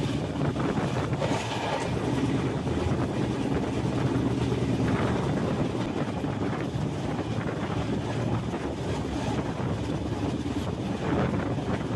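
Passenger train running steadily along the track: a continuous rumble of the coach with wind blowing across the microphone at the open doorway.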